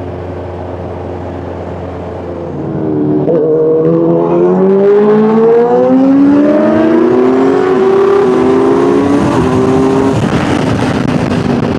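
Sport motorcycle engine cruising steadily, then revving up hard from about two and a half seconds in and accelerating through the gears, its pitch rising and stepping at each shift, with wind and road noise underneath.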